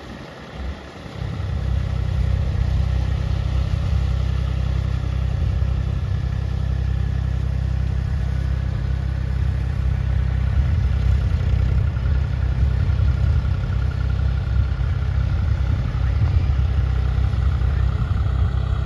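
John Deere 5045D tractor's three-cylinder diesel engine running steadily. It is quieter for the first second or so, then holds at a steady level.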